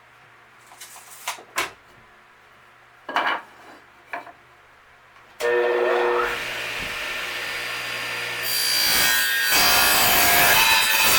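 A few light knocks and clicks, then about five seconds in a power saw starts suddenly and cuts through a wooden board. The cut gets louder for the last few seconds.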